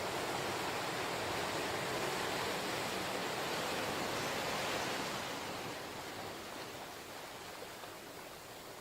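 Ocean waves washing ashore: a steady rush of surf that swells and then eases off over the last few seconds as a wave recedes.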